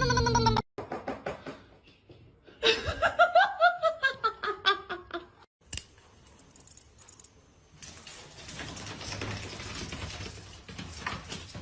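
A few soft ticks, then a person laughing in quick pulses that slide down in pitch, followed by a quieter hissing haze near the end.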